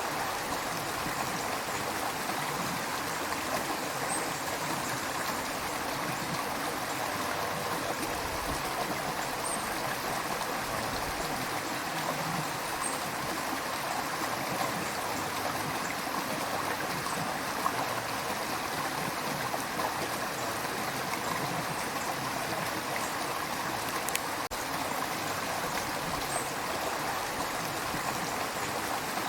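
River water flowing steadily over stones, a continuous rushing babble with small trickling splashes.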